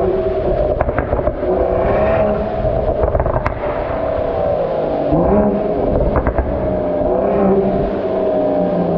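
Mercedes-AMG E53's turbocharged inline-six engine and exhaust running at fairly steady revs under way. The pitch steps up briefly about five seconds in, and a few sharp clicks or pops come through.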